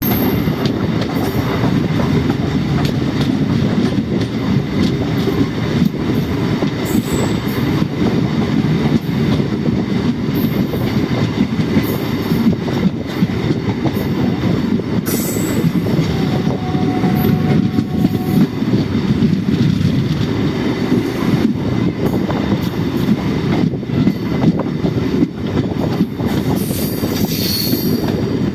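Train running on the rails: a steady rumble with constant rattling of the wheels and cars, and a faint brief tone about two-thirds of the way through.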